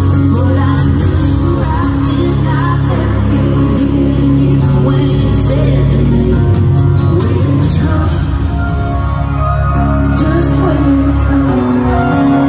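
Live country band playing a song in concert, with a voice singing over it.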